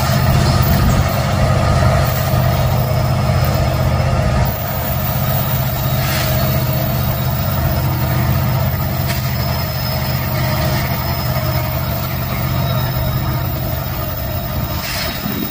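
Diesel freight locomotive engine running with a steady low drone, which drops a step in loudness about four and a half seconds in.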